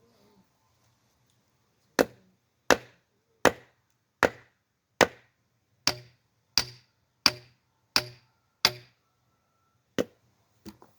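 Firewood being chopped: a dozen sharp blows of an axe into a hard log, about one every 0.7 seconds, then two more after a short pause. The log does not split.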